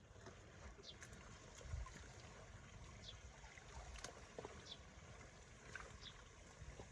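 Faint steady water flow with a low rumble of wind on the microphone. A short, high, falling chirp repeats every second or two.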